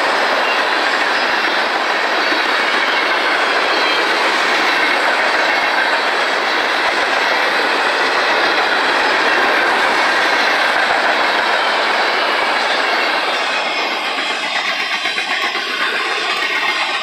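Freight cars of a mixed manifest train (boxcars, covered hoppers and tank cars) rolling past at close range: a steady, loud noise of steel wheels on the rails, with clickety-clack. It eases slightly about three seconds before the end.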